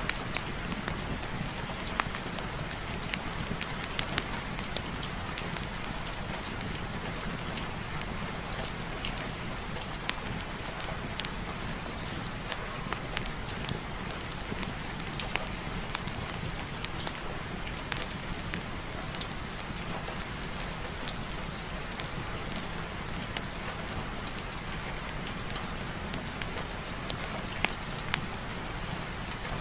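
Steady heavy rain, an even hiss with many irregular sharp clicks and pops scattered through it.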